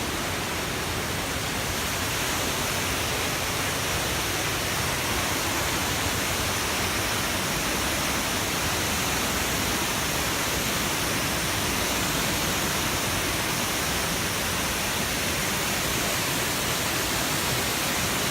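Waterfall crashing down close by: a steady, even rush of falling water.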